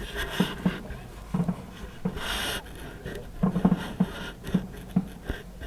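Distant fireworks going off: a scattered run of muffled pops and thumps, with a short hiss a little over two seconds in.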